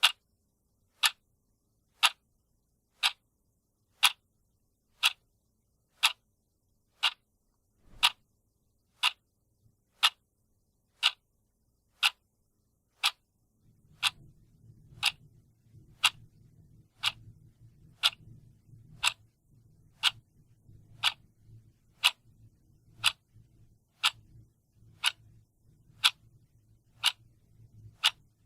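A clock ticking steadily, one sharp tick each second. A faint low hum comes in about halfway through.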